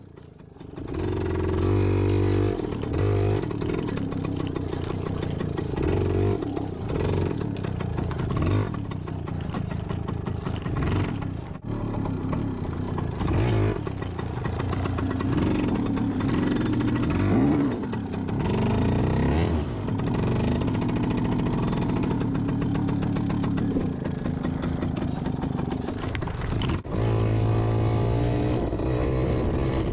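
Yamaha PW80 two-stroke single-cylinder dirt bike engine revving up and down as the bike is ridden along a trail, picking up about a second in.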